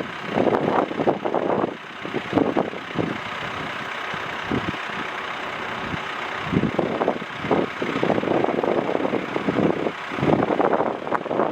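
Gusty wind buffeting the microphone in irregular blasts over a steady rushing background.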